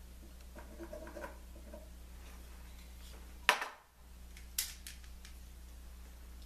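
Small handling noises: faint rustling, then a sharp click and a second, lighter click about a second later, over a steady low hum.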